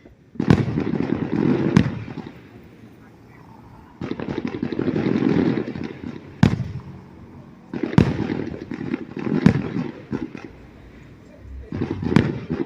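Fireworks going off in waves: sharp booms with crackling and rumbling around them, and short lulls between the waves.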